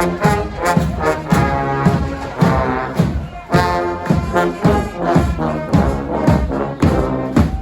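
A brass band playing a tune with trombones and trumpets over a steady drum beat.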